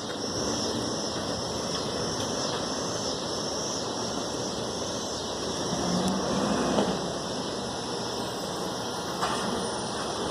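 Garbage truck running close by: a steady engine rumble and hiss that swells briefly about six to seven seconds in.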